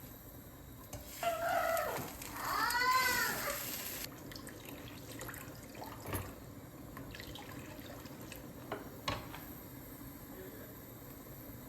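Kitchen tap running into the sink for about three seconds, its pitch shifting as the stream hits, then turned off abruptly. A few light knocks follow.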